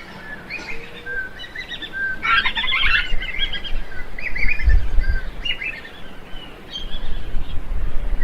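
Birds calling in a quick run of short chirps and whistled notes, thickest about two seconds in, with a dull low rumble underneath.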